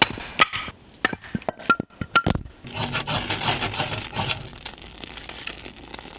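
A run of sharp wooden knocks and cracks, about seven in the first two and a half seconds, as a hatchet chops and splits firewood. It is followed by a couple of seconds of rough scraping and crackling noise that fades away.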